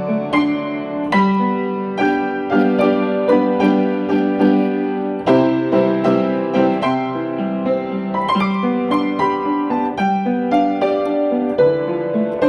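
Piano music: a melody of struck notes over sustained chords, with no voice.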